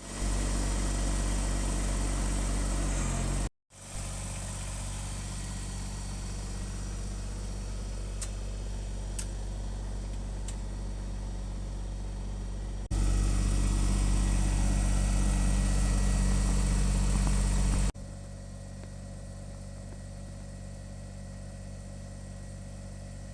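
Kubota compact tractor's diesel engine running steadily, heard across several clips cut together, so its loudness jumps abruptly at each cut: a brief dropout a few seconds in, louder for about five seconds in the middle, then quieter.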